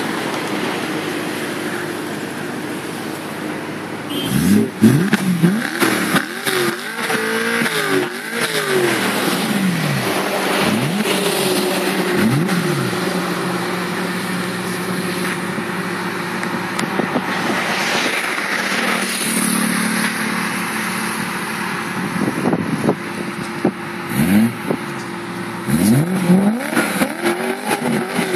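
BMW E93 M3's 4.0-litre V8 idling through its quad exhausts, revved in quick throttle blips that rise and fall in pitch. There is a string of blips about four seconds in, two more around ten to twelve seconds, and another string near the end.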